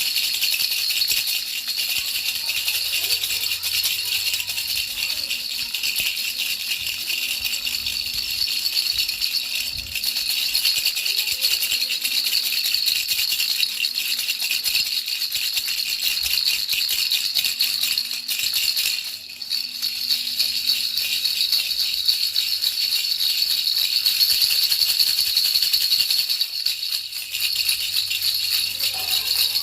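Baby rattle shaken continuously, a dense steady rattling with a brief dip about nineteen seconds in.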